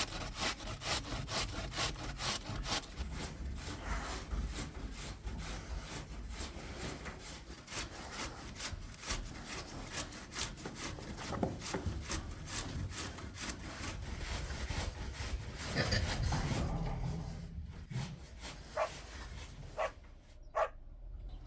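Hand saw cutting wood in quick, even back-and-forth strokes, which die away near the end and are followed by a few separate knocks.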